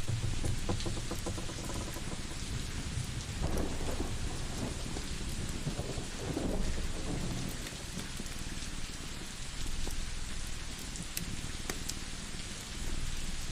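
Ambience of steady rain with low rolls of thunder swelling about a third and half of the way in. Scattered sharp crackles of a wood fire sound over the rain.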